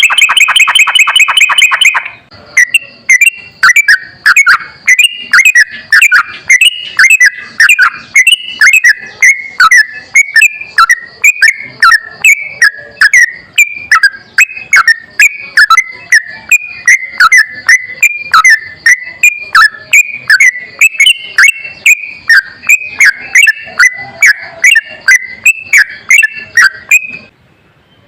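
Recorded songbird song: a rapid trill for about two seconds, then a long run of quick, repeated chirping phrases that stops about a second before the end.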